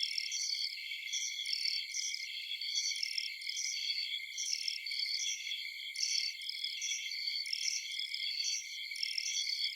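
A dense chorus of crickets chirping continuously at night, high-pitched, with overlapping chirps repeating over a steady insect trill.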